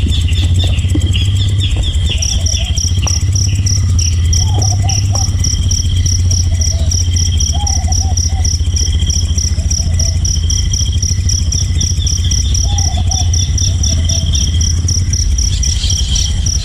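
Insects calling: a rapid, evenly pulsed high trill begins about two seconds in, among other repeated chirps, over a steady low hum.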